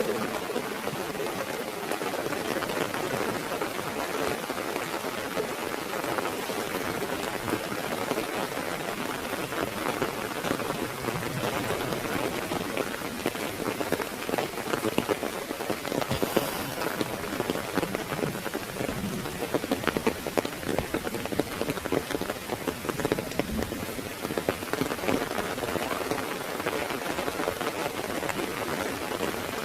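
Heavy rain falling on an umbrella overhead: a dense, steady patter of drops with a few louder splats here and there.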